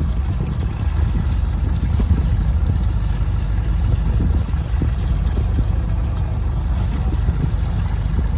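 Fishing boat's engine running steadily, a heavy low drone with scattered faint knocks on top.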